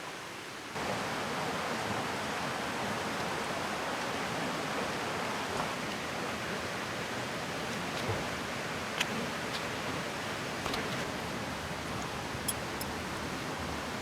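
Steady rush of a flowing river, which gets louder a little under a second in. A few sharp clicks come through it in the second half.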